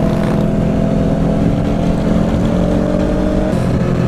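Motorcycle engine running under way, its pitch climbing slowly and then dropping abruptly about three and a half seconds in as it shifts up a gear, with wind noise over the microphone.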